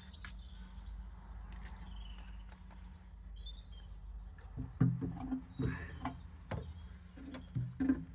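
Faint birds chirping over a low hum, then from about halfway a series of sharp knocks and clunks as the battery clamp and its parts are handled and fitted on the dumper.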